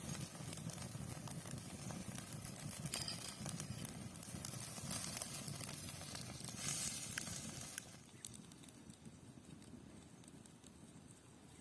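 Cooking over an open fire: steady sizzling and crackling with small pops, dropping lower about eight seconds in.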